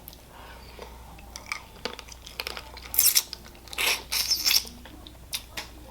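Close-miked eating of boiled crawfish: shells cracking and crackling, with chewing. Two louder bursts of noise come about three and four seconds in.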